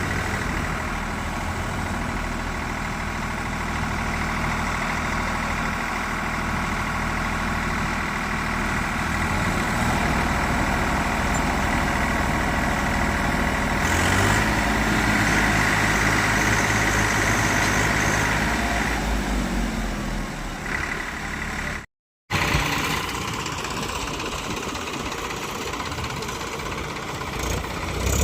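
Tractor engine running steadily, revving higher and louder for several seconds midway, as it would when a stuck tractor strains to pull free. A brief cut to silence comes about three-quarters of the way through.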